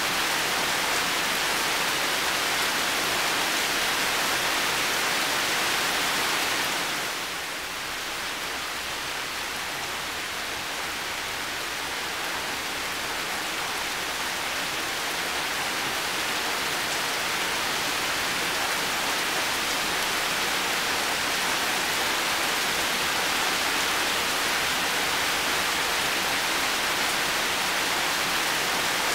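Heavy rain falling steadily, a dense even hiss. It eases slightly about seven seconds in, then builds back to full strength over the next several seconds.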